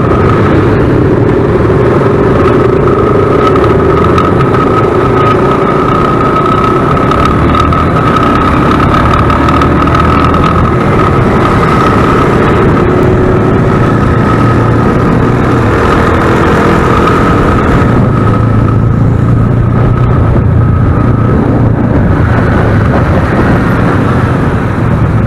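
Motorcycle engine running with heavy road and wind noise during a ride, loud and steady, with a thin steady whine over most of it.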